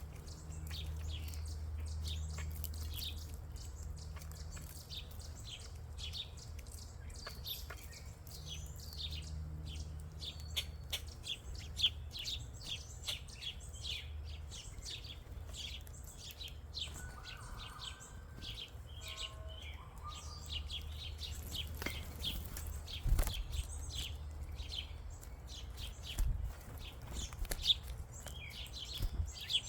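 Many small birds chirping, with quick, short, overlapping calls throughout. A steady low rumble runs underneath, and a few dull thumps come in the second half.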